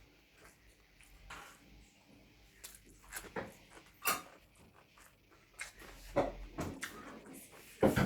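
A few scattered light knocks and clicks over quiet room tone, the sharpest near the end.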